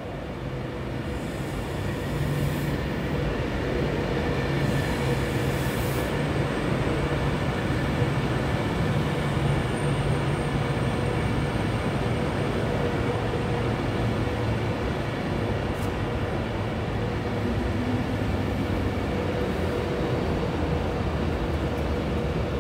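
A train running at a station platform, a steady low mechanical hum with some higher steady tones, growing louder about two seconds in and then holding steady.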